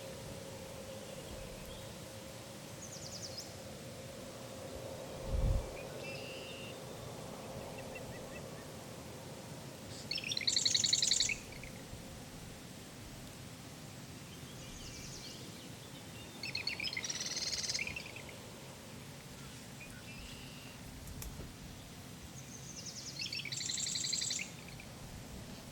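A small songbird singing a rapid trilled song three times, each phrase about a second long and some six seconds apart, with fainter chirps between; a short low thump about five seconds in.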